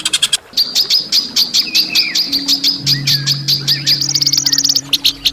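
Songbird rapidly repeating sharp chirps, about ten a second at a steady pitch, switching about four seconds in to a faster, higher-pitched run, over a low steady hum. This is harsh 'kasaran' song of the kind used to train songbirds.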